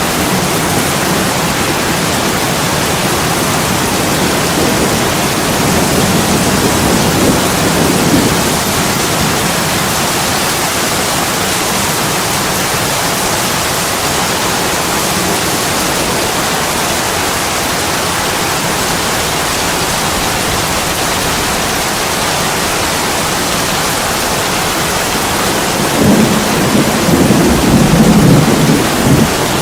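Heavy rain pouring steadily on an attic window, with a low rumble of thunder swelling up near the end.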